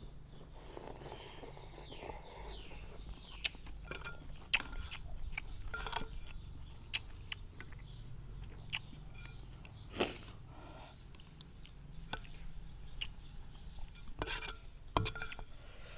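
Someone eating noodle soup: chewing and slurping, with scattered short clicks of utensils against the bowl.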